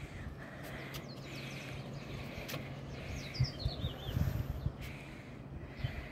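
A small bird chirping: faint high notes about a second in, then a quick run of five or six chirps about three seconds in. Underneath is a steady low rumble with a few soft thumps.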